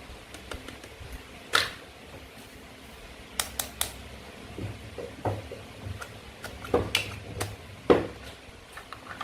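Toy fruit and vegetable pieces being cut and handled, making a series of sharp plastic clicks and knocks. There is one click about a second and a half in, a quick run of three a couple of seconds later, and more scattered through the second half, the loudest near the end.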